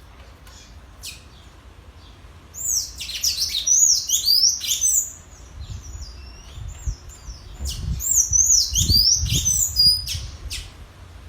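Sanhaço (tanager) song: two bouts of rapid, squeaky high-pitched notes, the first about two and a half seconds in and the second about three seconds after it ends, with a few single call notes between. Some low thumps run under the second bout.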